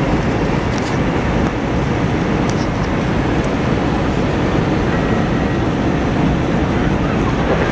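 Steady rumbling cabin noise of an Airbus A321 rolling on the ground, the jet engines running along with the rumble of the wheels and airframe.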